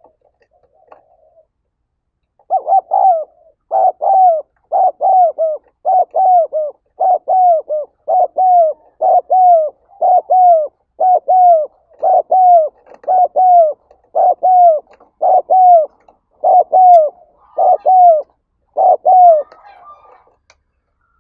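Spotted dove giving its rapid repeated cooing call (gáy thúc), about one phrase a second, each phrase two or three falling coos. It begins a couple of seconds in and stops near the end.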